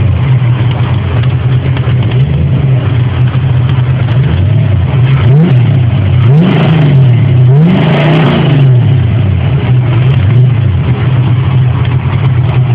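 Ford Mustang GT's 5.0 V8 with a custom exhaust, idling and revved several times, the engine pitch rising and falling back, with the biggest revs in the middle before it settles to a steady idle.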